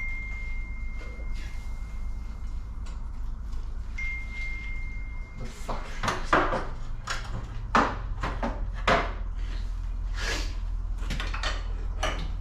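Metal parts and tools clanking and knocking against each other in quick irregular strikes from about six seconds in, over a steady low hum. A thin high steady tone sounds twice early on.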